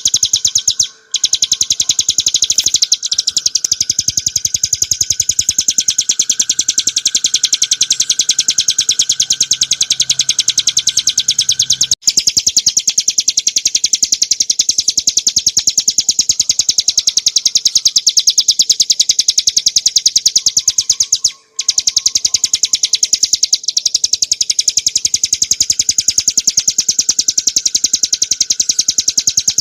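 Ciblek gunung (a prinia) singing a continuous, very fast chatter of sharp high notes. The song breaks off briefly about a second in, about 12 seconds in and about 21 seconds in.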